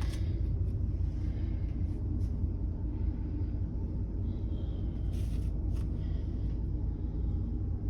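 Steady low rumble of a cruise ship's machinery heard inside a cabin, with a few faint clicks about five seconds in.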